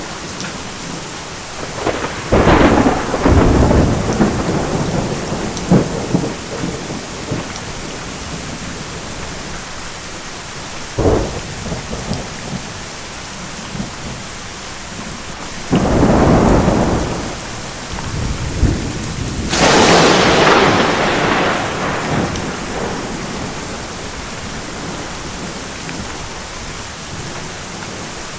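Steady heavy rain with thunder: claps and rolling rumbles come several times, the loudest a sharp crack that rolls off about two-thirds of the way through.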